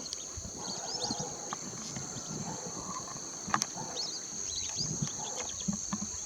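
Lesser whistling ducks (whistling teal) giving short, repeated rising whistles over a steady high insect drone, with scattered low knocks.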